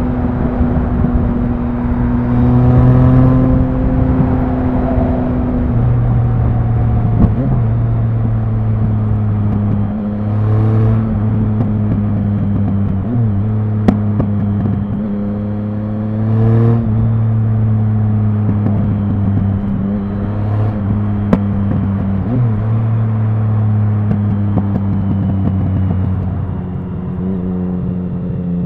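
Triumph Speed Triple 1050's inline three-cylinder engine under way at low to moderate revs, with short throttle rises and changes in engine pitch a few times as it accelerates and shifts gear. A few brief sharp clicks are heard along with it.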